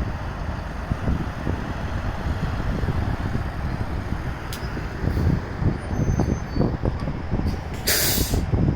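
Wind buffeting the microphone in a steady low rumble, with a short sharp hiss about eight seconds in.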